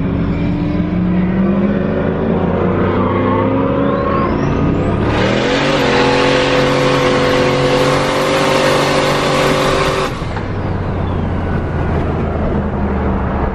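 Turbocharged LS1 V8, running 14 psi of boost and heard from inside the cabin, revs up for about five seconds with a rising turbo whistle. The engine then holds high revs under a loud rush for about five seconds, which cuts off abruptly as the throttle closes. The turbo whistle then falls away and the engine drops back to a lower note.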